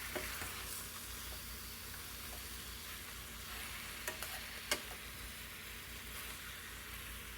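Marinated chicken sizzling in a pan with fried onion and tomato as it is stirred in, a steady sizzle with a few sharp knocks of the stirring spoon against the pan, the loudest a little past halfway.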